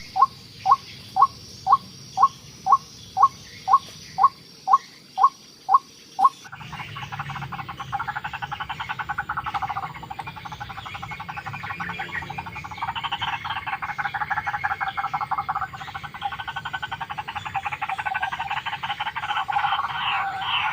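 White-breasted waterhen calls: short rising notes repeated about twice a second, then a sudden switch about six seconds in to a louder, denser run of rapid croaking calls.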